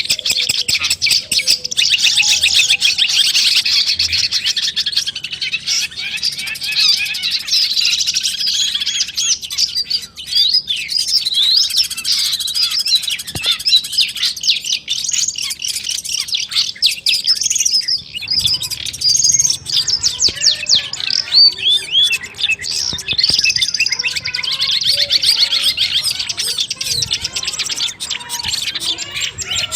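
Long-tailed shrike (cendet) singing a fast, continuous chattering song of rapid high trills and quick repeated notes, broken by a couple of brief pauses.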